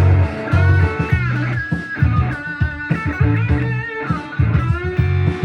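Distorted electric guitar lead: a Gibson Les Paul Standard 50s on its bridge pickup playing sustained notes with string bends through a Suhr Riot Mini distortion in its tight gain mode, with a Donner Morpher distortion also switched on and stacked with it. Under it runs a backing track with bass and drums.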